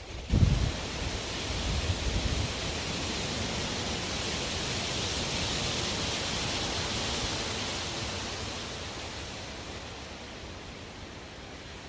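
Strong wind blowing in a long gust that builds over the first few seconds and eases off near the end. A low thump comes about half a second in.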